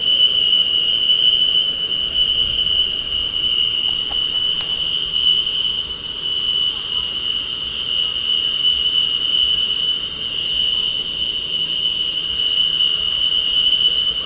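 A continuous high-pitched whine holding one steady pitch over low background noise, with a brief faint click a little after four seconds in.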